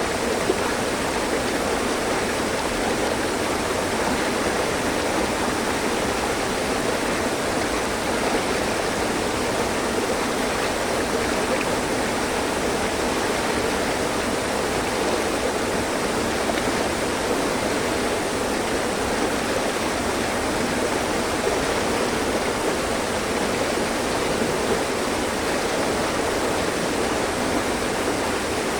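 Mountain stream flowing and splashing over rocks, a steady rush of water.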